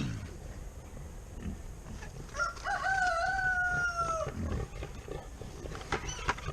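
A rooster crowing once: a single drawn-out call of about two seconds, pitched and held, falling slightly at the end.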